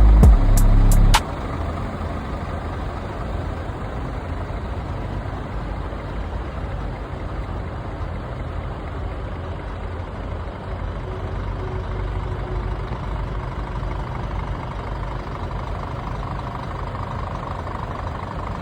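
Truck engine idling steadily with a low rumble, after loud music cuts off about a second in.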